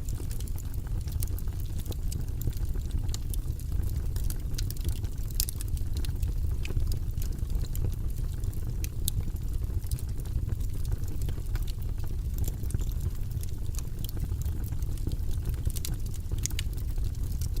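Wood fire burning in a fireplace: a steady low rushing of the flames with frequent sharp, irregular crackles and pops.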